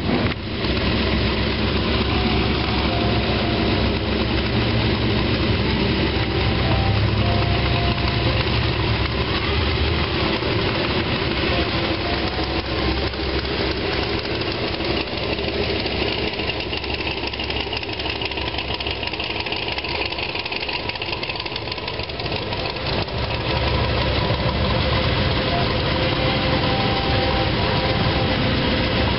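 Hot-rod and classic-car engines, among them a C3 Corvette and a Willys coupe, idling and running at low speed as the cars roll slowly past. A steady, continuous low engine sound.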